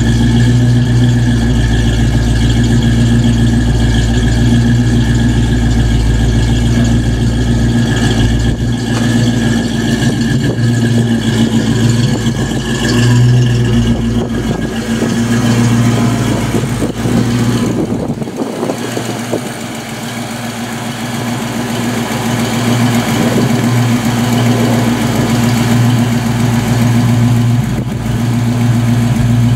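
1990 Ford Mustang GT's 5.0-litre V8 idling steadily.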